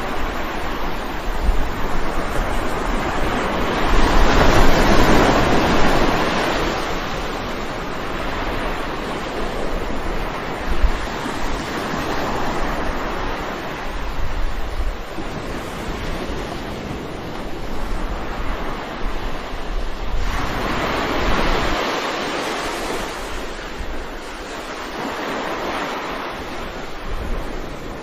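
Ocean waves breaking on a shore, the surf swelling and ebbing in slow surges every several seconds, with a low wind rumble on the microphone.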